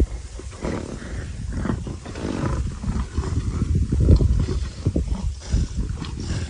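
Leopards growling in a fight: a string of rough, low growls that rise and fall unevenly, the loudest about four seconds in.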